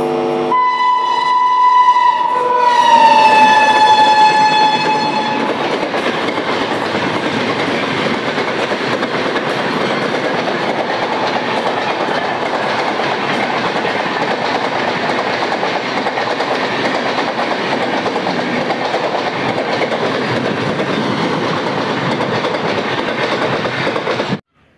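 Passenger train running through the station: the locomotive's horn sounds for about five seconds, dropping in pitch as it goes by, then a steady loud rush of wheels on rails as the long rake of coaches passes. The sound cuts off suddenly near the end.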